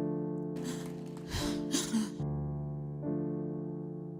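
Slow background piano music: held chords that fade away and change about every second. Two brief hissy swells come in about half a second and a second and a half in.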